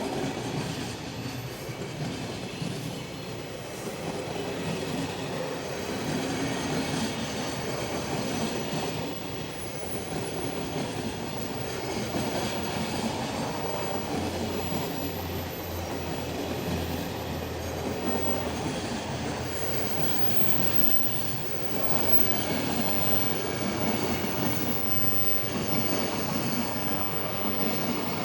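A long freight train rolling past, its wagons' wheels running steadily over the rails with a clickety-clack.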